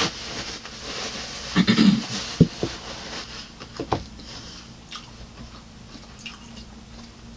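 A person chewing food close to the microphone, with sharp mouth clicks and smacks and a brief hum about two seconds in. Near the end there are only faint small sounds as she drinks from a water bottle.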